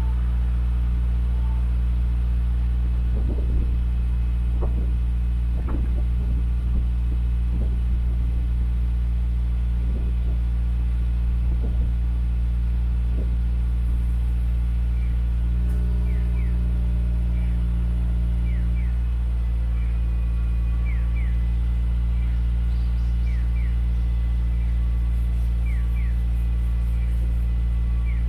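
Subaru flat-four engine idling steadily through an aftermarket EXAS EVO Tune muffler, giving a deep, even exhaust drone while it warms up from a cold start. The note shifts slightly about halfway through.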